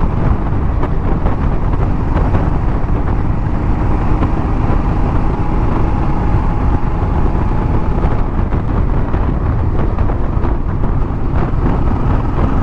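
Motorcycle riding at road speed: a steady rush of wind on the microphone over engine and road noise.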